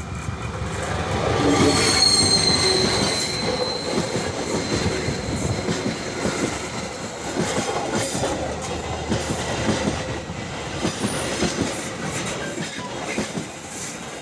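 Passenger train crossing the Cirahong rail bridge, its wheels squealing on the rails. A high squeal is loudest about two seconds in, over a continuous rumble and knocking of wheels on the rail joints.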